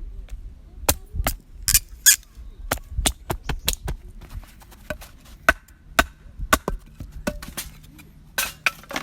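An irregular run of sharp knocks and clicks, about twenty of them, from hard objects being handled or struck.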